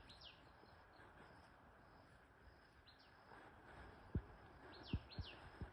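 Near-quiet natural ambience with a few faint, short falling bird chirps. Several soft low thumps come in the second half.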